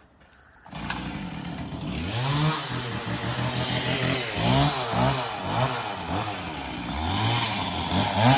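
Starter motor cranking the 1967 Mini's four-cylinder BMC A-series engine after 25 years of standing. It starts suddenly about a second in, then speeds up and slows down over and over, about twice a second. The owner has found the engine turns over well but short of compression.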